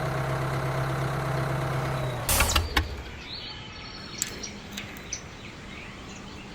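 Mini tractor's motor running steadily, stopping about two seconds in with a short clatter of loud knocks. Faint bird chirps follow.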